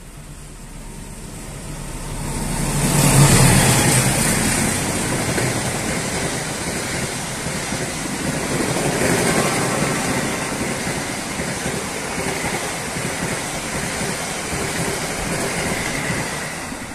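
A train passing close by. The rumble and rolling noise swell to a peak about three seconds in, then carry on steadily with no horn.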